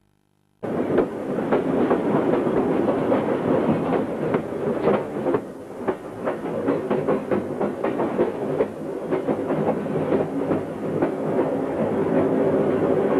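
Train running along the track, heard from inside a moving carriage: a steady rattling noise with many sharp clicks from the wheels and car. It starts abruptly under a second in.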